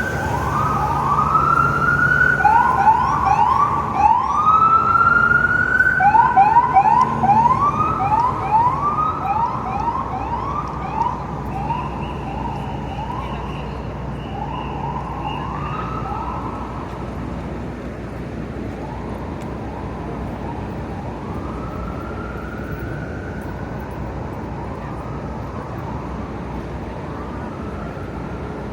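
Emergency vehicle siren on a city street, cycling in a fast yelp at about two sweeps a second, loudest in the first ten seconds. It then fades into slower, fainter wails over the steady rumble of traffic.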